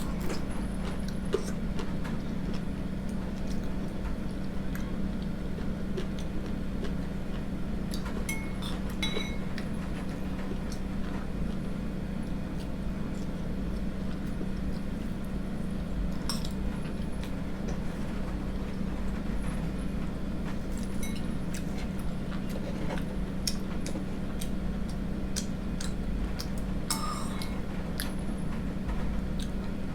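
Cutlery clinking now and then against a bowl or dish during eating, in scattered short high clicks over a steady low hum.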